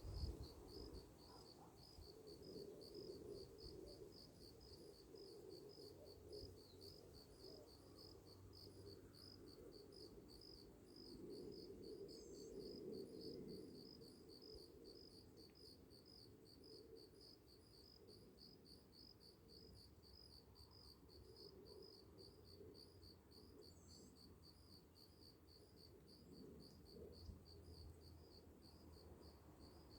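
A cricket chirping faintly in a steady, even run of rapid high-pitched chirps, over faint low background noise.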